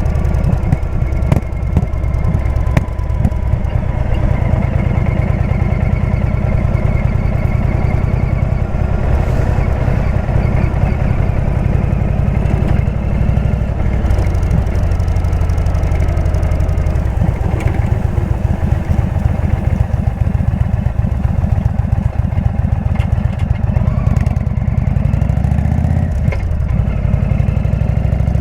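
Indian V-twin motorcycle engine with a Jekill & Hyde exhaust running at low, steady revs, the revs rising briefly near the end.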